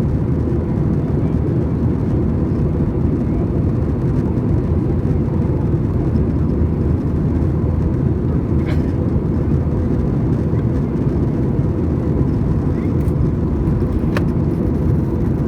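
Steady low roar inside the cabin of an Airbus A320 in flight: jet engine and airflow noise heard from a window seat, with a faint steady hum. There are a couple of faint clicks.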